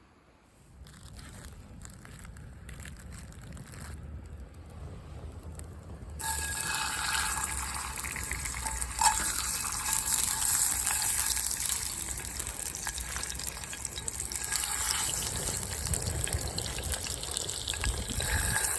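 Food sizzling and crackling in a hot skillet over a wood fire, the sizzle starting suddenly about six seconds in and then going on as a steady hiss.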